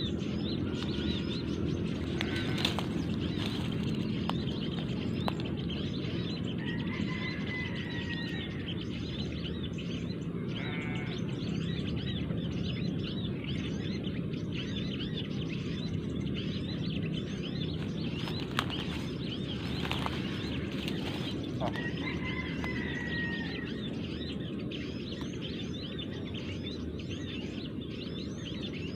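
Dense, continuous chirping of many small birds over a steady low rumble, with a clearer call twice.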